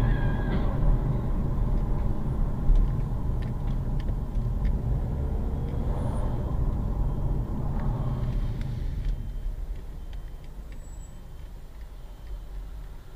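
Car driving, a steady low rumble of engine and road noise that eases off over the last few seconds.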